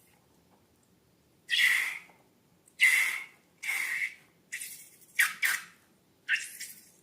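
Slime and balloons being squeezed and handled: six short, hissy, squeaky bursts at uneven intervals, the last few closer together.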